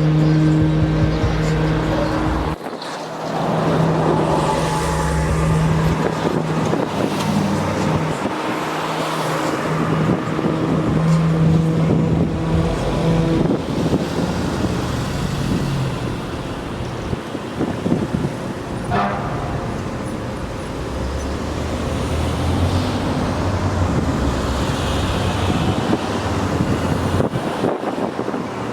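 Motor-vehicle traffic and engine noise, with a steady low engine hum through the first half and a brief higher-pitched squeal about 19 seconds in.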